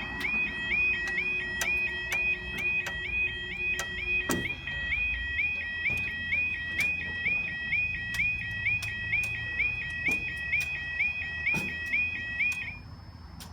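Level crossing warning alarm sounding: a repeating rising two-tone yelp, a little over twice a second, that cuts off suddenly near the end.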